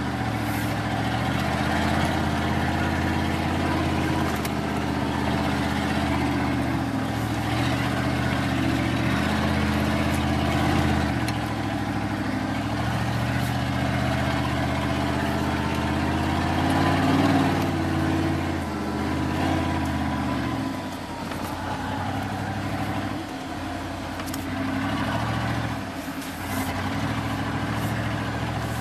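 Plow truck's engine running under load as it pushes snow with the blade down, heard from inside the cab. The engine note holds steady, rises briefly, then drops and gets quieter about two-thirds of the way through.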